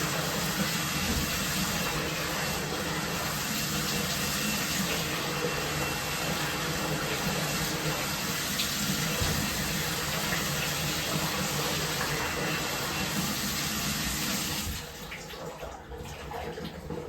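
Water running steadily from a tap into a bathtub. It is shut off near the end, leaving a few faint sounds.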